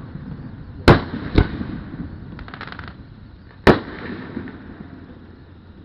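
Aerial fireworks shells bursting: three sharp bangs, two about half a second apart about a second in and a third near the four-second mark, each trailing off in a rumbling echo. A brief patch of fine crackling comes between them.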